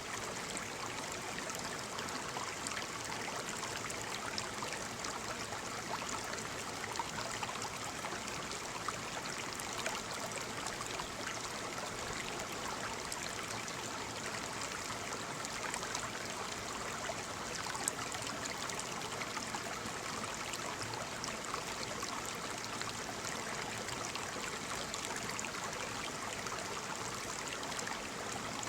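Waterfall: falling water rushing and splashing steadily, with a few slightly louder splashes.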